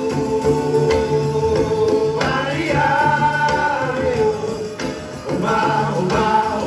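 Live band music with singing: voices holding long sustained notes over guitar and a pulsing bass line, with a short dip in loudness about five seconds in.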